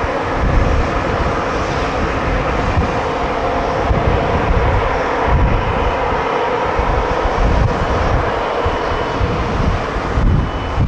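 Jet airliner engines running, a loud steady rushing noise over an uneven low rumble.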